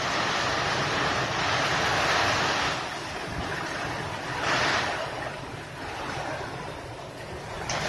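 Heavy storm rain pouring down with gusting wind, a dense steady rush that swells and eases: loudest for the first two to three seconds and again briefly about four and a half seconds in.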